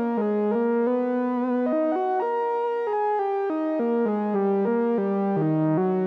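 Behringer Odyssey analog synthesizer playing a melody one note at a time in a bright, buzzy tone, changing note about every half second, with a wavering vibrato on a few held notes.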